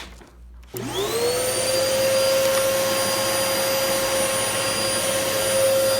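Hoover upright bagless vacuum cleaner switched on with a click about a second in, its motor spinning up in a rising whine and then running steadily with a high, really loud whine.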